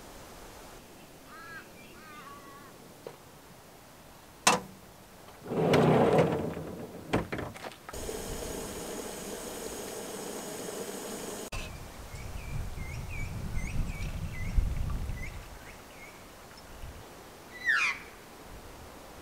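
Birds calling in bushland: faint short chirps, then a single falling call near the end. In between there are a few sharp clicks, a loud hissing burst and a steady hiss lasting a few seconds.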